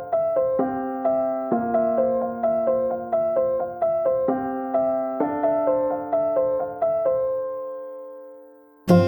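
Instrumental music: a soft keyboard piano playing a repeating figure of quick notes over held bass notes, fading out about seven seconds in, then a louder, fuller chord coming in near the end.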